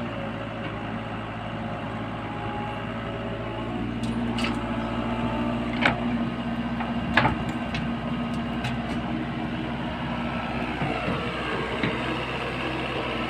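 Heavy earthmoving machine's diesel engine running steadily, with two sharp metallic knocks about six and seven seconds in.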